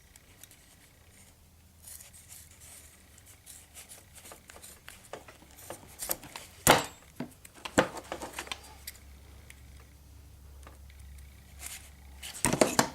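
Hands working nylon pack webbing and metal strap clips: scattered clicks and rustles, with one sharp click just under seven seconds in and a quick run of clicks near the end.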